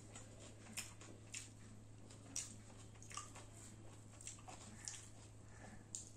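Quiet eating sounds: wet chewing and lip smacks, with a sharp click about once a second, over a low steady hum.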